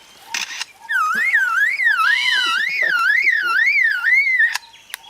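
A bird mimicking an electronic alarm: a loud whistled, siren-like tone warbling up and down about three times a second for roughly three and a half seconds, then breaking off, with short repeated lower notes behind it.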